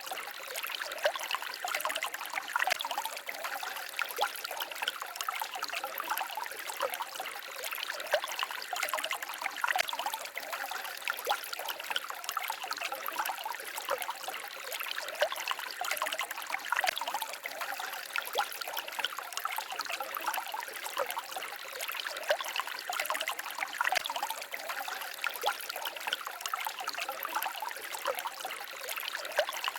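Small forest stream babbling and trickling steadily over stones, with many small splashes and no low rumble.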